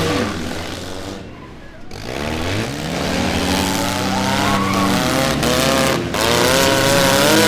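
Several four-cylinder demolition derby car engines revving hard, their pitch rising and falling as they accelerate and back off, with a brief drop in loudness about a second in.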